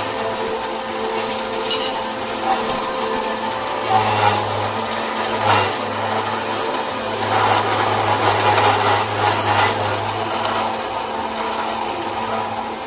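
A powered metal-cutting machine running, with a steady low hum under a rough cutting noise. The noise swells about four seconds in and again from about seven to ten seconds, then eases.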